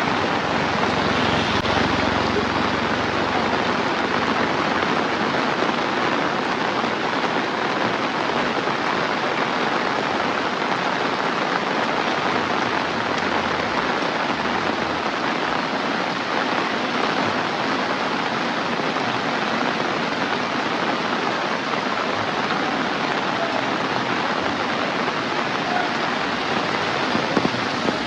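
Heavy rain falling steadily, a dense even hiss of drops on surfaces, with a few sharper taps near the end.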